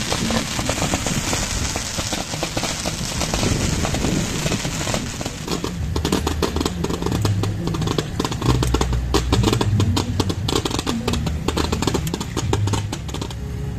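Pyrotechnic spark fountains hissing, then a dense, rapid crackle of fireworks from about five seconds in, with a low rumble underneath.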